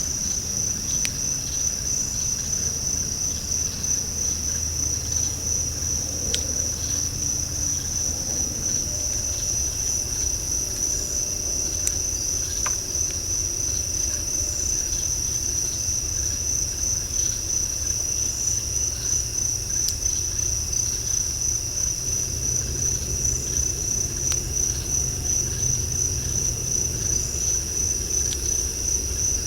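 Night insect chorus: a steady, unbroken high-pitched trill, over a low rumble.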